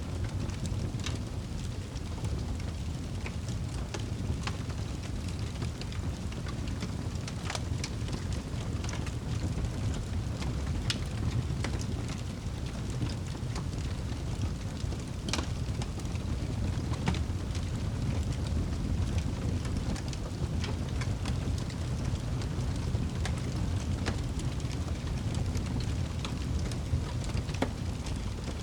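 Fire crackling in a fireplace: a steady low rumble with sharp pops and crackles scattered at irregular intervals.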